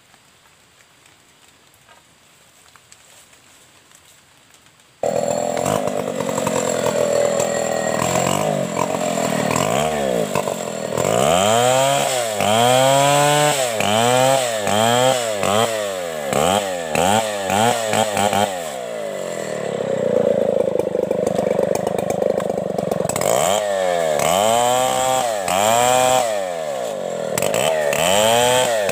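Stihl 070 two-stroke chainsaw. After about five seconds of quiet it comes in suddenly and loud. It is revved up and down in quick blips again and again, with a steadier stretch in the middle.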